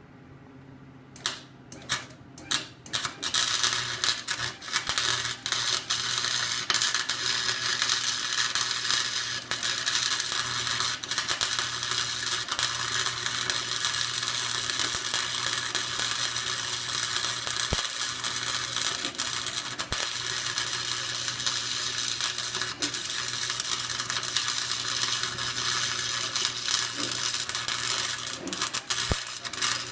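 Wire-feed (MIG) welder arc crackling steadily after a few short starting bursts, over a steady low hum; the arc stops near the end. The welds are going onto the differential's gears to lock an open diff.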